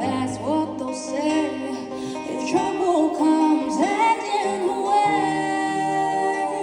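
A woman singing a song with guitar accompaniment, the melody gliding and wavering over steady held chords and bass notes.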